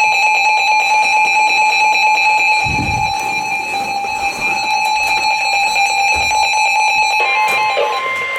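Emergency Alert System two-tone attention signal (853 and 960 Hz sounded together) from a weather radio broadcast, a steady, piercing alarm tone held for about eight seconds, announcing a newly issued alert. About seven seconds in, a second, single steady tone joins it as it ends.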